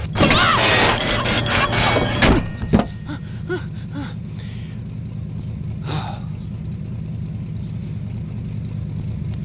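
Car engine starting with a loud, noisy burst lasting about two seconds, then settling into a steady low idle.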